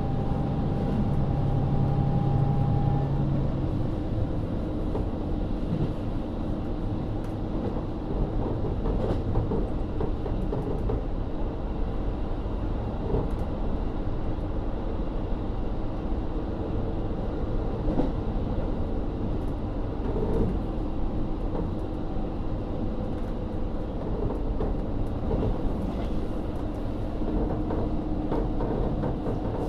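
Running sound heard inside a KiHa 40 diesel railcar with its DMF13HZB engine: a steady low rumble of the car on the rails, with scattered faint clicks. A steady droning tone cuts off about three seconds in, leaving the rumble.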